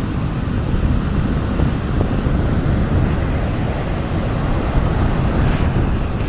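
Sea waves washing on a beach, with wind rumbling on the microphone; a wave washes in, its hiss brightening about five seconds in.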